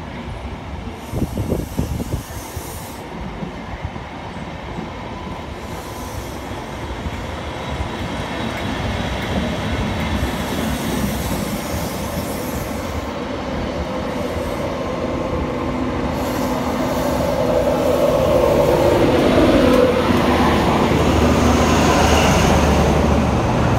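Test train passing at low speed: coaches' wheels rumbling and clicking over the track, with some wheel squeal. It grows louder as a diesel locomotive draws level, its engine adding a steady low hum near the end.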